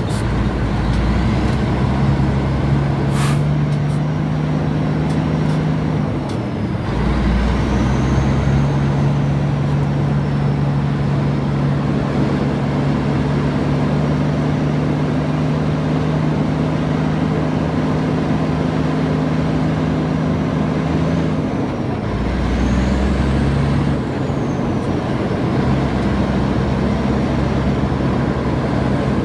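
A motor vehicle engine running steadily with a low drone that changes pitch twice, about six seconds in and again a little past twenty seconds.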